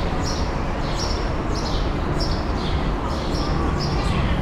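A bird calling over and over with short, high chirps that drop in pitch, roughly two a second, over a steady background hubbub.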